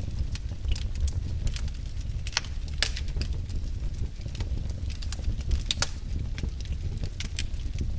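Wood fire in a fireplace crackling: irregular sharp pops and snaps, a few louder ones, over a steady low rumble of burning.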